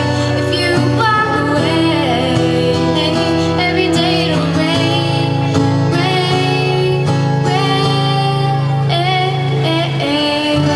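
Female vocalist singing a slow ballad over instrumental accompaniment, holding long notes with vibrato.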